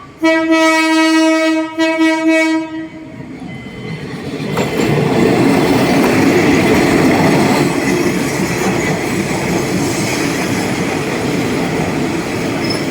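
A train horn sounds right at the start, about three seconds long and broken twice. Then a train runs through on the rails with a loud, steady rumble and clatter.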